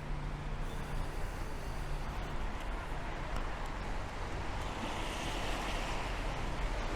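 Steady rain hiss mixed with city traffic on wet streets, a low engine hum fading out about two seconds in and a hiss swelling from about four and a half seconds, as of a vehicle passing on the wet road.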